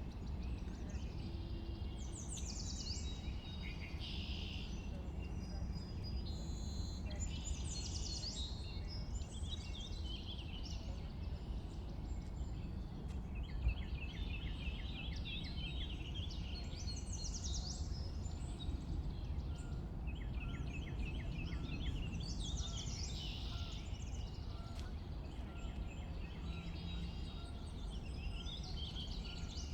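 Several songbirds singing together in a spring dawn-chorus style ambience, with overlapping chirps, whistles and quick repeated trills. A steady low rumble runs underneath.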